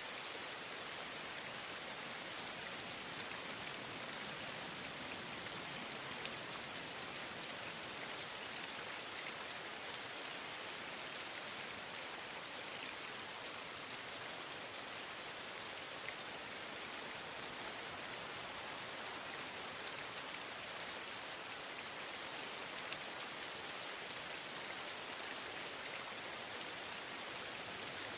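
Steady rain falling, an even hiss flecked with many small ticks of individual drops.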